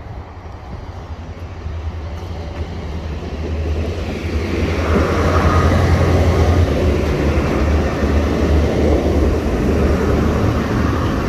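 NI Railways diesel multiple-unit train approaching and passing close by over the level crossing: a low engine and wheel rumble that grows much louder about four seconds in and stays loud as the carriages go by.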